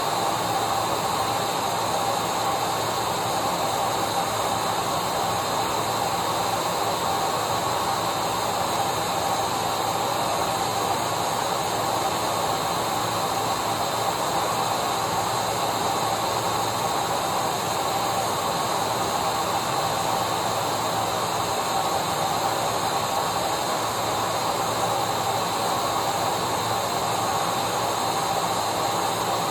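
Vacuum cleaner running steadily: an even rush of air with a constant motor whine, unchanging in pitch and level.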